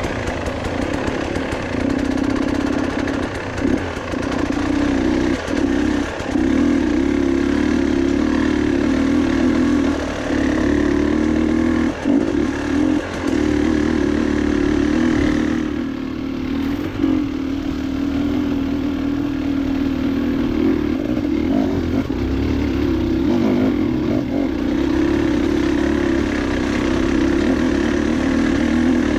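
Motorcycle engine running at a steady, low speed on a rough trail, with brief dips as the throttle eases off and picks up again.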